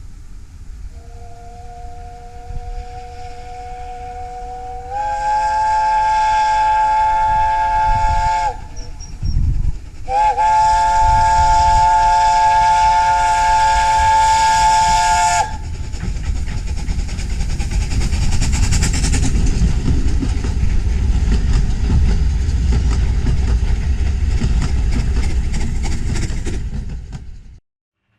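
Steam locomotive whistle sounding a chord of several notes: it starts soft, swells into a long blast, then gives a second long blast after a short gap. The train's steady running rumble follows, and the sound cuts off suddenly near the end.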